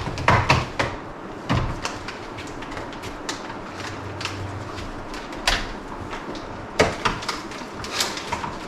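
Hot clothes iron pressed along the top of a food storage bag to heat-seal it: scattered knocks and crinkles as the iron and bag are handled.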